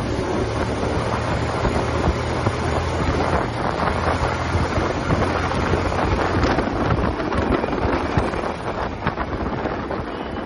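TVS Apache RTR 180's single-cylinder engine running, with heavy wind noise on the microphone. A steady low hum for the first six seconds or so turns rougher and noisier after that.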